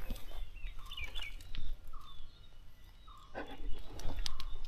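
Outdoor ambience: a few short bird chirps over a low, steady rumble.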